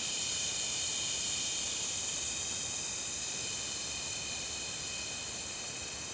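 Steady chorus of insects: a high-pitched, continuous shrilling drone that swells just at the start and holds.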